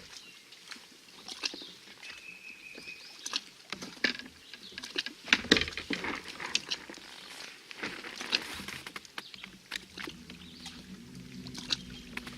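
Scattered clicks, knocks and light rattles of fishing gear being handled in a kayak, busiest about five to six seconds in. A low steady hum starts about ten seconds in.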